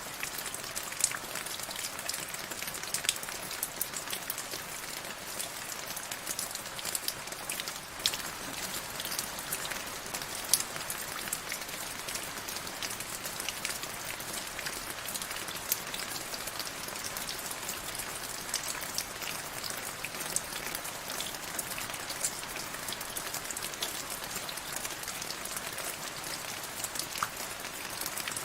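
Steady rain falling, a dense hiss with many sharp individual drops ticking on a surface.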